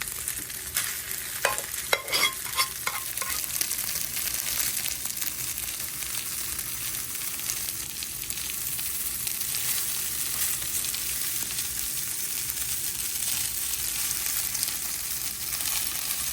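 Rice frying on a hot grill, a steady sizzle as it is stirred, with a few sharp knocks of a utensil about one to three seconds in.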